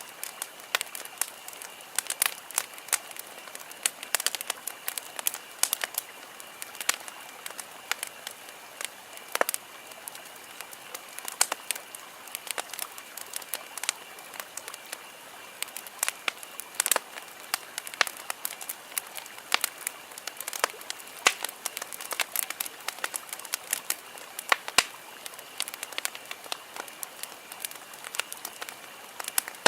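Wood campfire crackling, with frequent sharp, irregular pops over a soft steady hiss.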